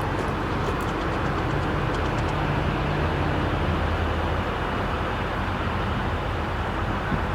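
Ford F650 dump truck engine running steadily, a little louder from about one and a half to four and a half seconds in.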